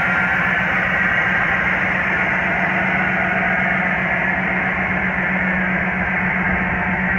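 The 1995 Pontiac Firebird's LT1 V8 running steadily, a constant drone that does not change in pitch or level.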